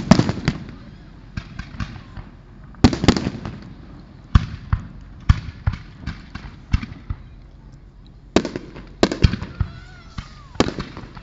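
Aerial fireworks exploding: a series of sharp bangs and crackling reports in uneven clusters. The loudest come right at the start and about three seconds in, with another dense group around nine seconds.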